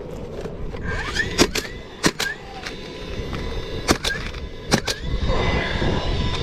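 DeWalt nailer fastening ridge cap shingles: about six sharp shots, singly and in quick pairs, each with a short rising motor whine.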